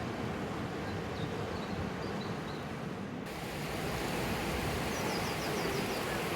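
Steady rushing of river water or a waterfall. A quick run of about six short, high bird chirps comes about five seconds in.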